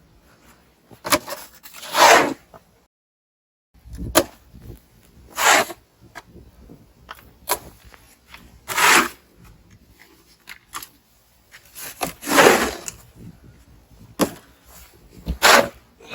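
Snow being crunched and scraped in a series of rough bursts about three and a half seconds apart, with short sharp clicks in between.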